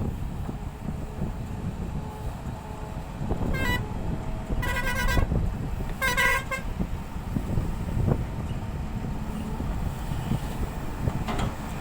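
Vehicle horn honking three times, a short toot and then two longer blasts, over the steady low rumble of heavy diesel engines.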